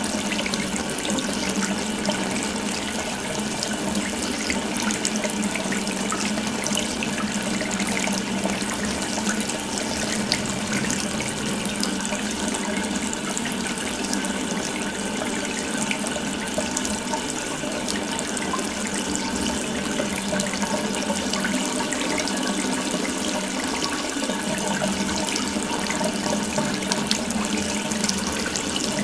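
Water running steadily from an open tap into a sink, a continuous splashing stream.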